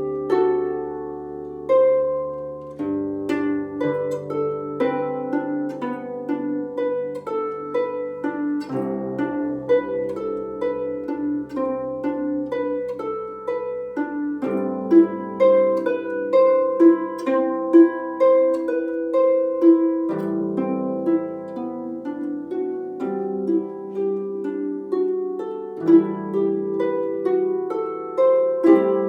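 Solo harp playing: a plucked melody of ringing, decaying notes over low bass notes that change every few seconds.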